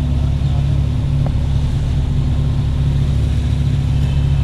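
Honda CG 125's single-cylinder four-stroke engine running at a steady, unchanging pitch while riding, with road and wind noise.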